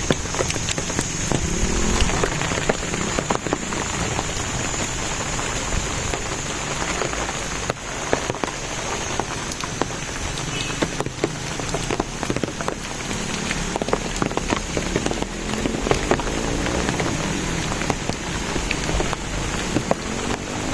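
Steady rain falling, with many small drop clicks close by and a thin, steady high tone running over it.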